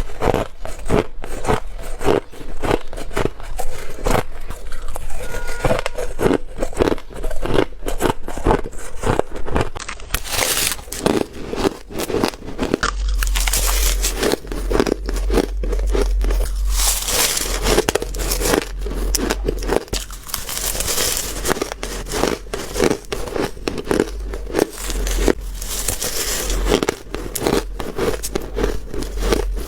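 Close-miked biting and crunching of ice: a rapid run of sharp, crackling crunches. About halfway through, the crunching turns denser and hissier.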